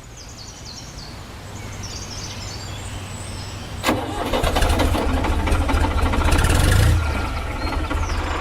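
A small engine starts up about four seconds in and runs with a fast, rattling beat, settling slightly near the end. Birds chirp faintly in the first half.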